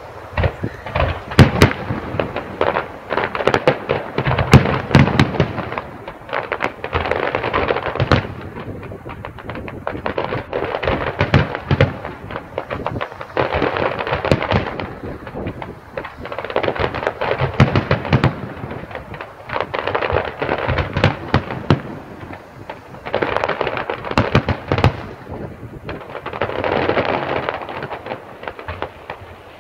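Display fireworks going off in quick succession: sharp bangs mixed with crackling bursts that swell and fade in waves every few seconds, the loudest bangs in the first five seconds.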